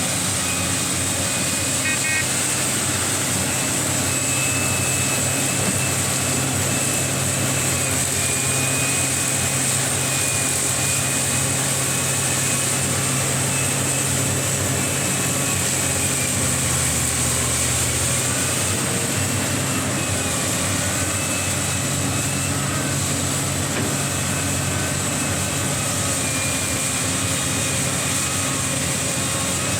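Liebherr R 984 hydraulic excavator's diesel engine running steadily, with a thin high whine over it that wavers in pitch. The engine note shifts briefly a little past halfway.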